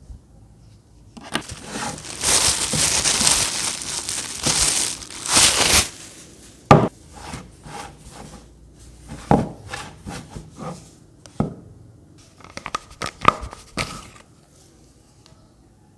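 Plastic packaging crinkling and rustling for several seconds as the humidifier is unwrapped, followed by a series of sharp clicks and knocks from handling the plastic parts.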